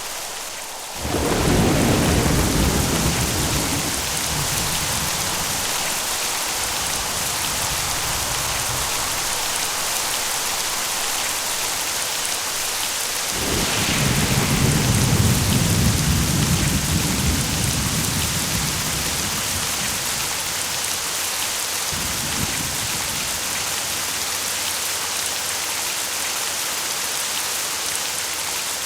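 Steady heavy rain with rolls of thunder: a deep rumble about a second in, a louder one about halfway through, and a smaller one later, each fading slowly.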